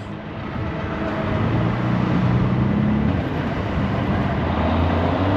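Street traffic heard from a moving electric scooter: the low hum of nearby vehicle engines swelling in the first couple of seconds and again near the end, over steady road and wind noise.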